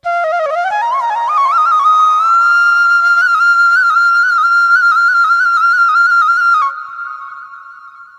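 Flute music: a melody climbs over the first two seconds, then settles on a long held high note with small ornaments. About six and a half seconds in it breaks off to a lower note that fades away.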